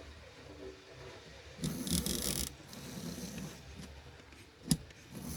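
Small electric motor and gear train of a Roco model steam locomotive running, still ungreased and unserviced: a loud whirring burst about two seconds in, then quieter churning, and a sharp click near the end.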